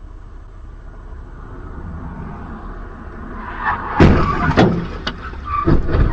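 Low vehicle rumble heard from a dashcam, then a run of loud crashing bangs about four seconds in: a vehicle collision.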